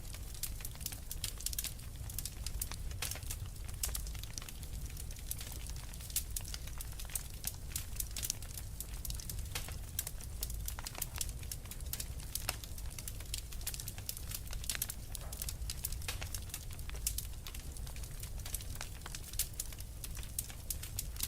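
Wood fire crackling, with many quick, sharp pops and snaps over a low, steady rumble.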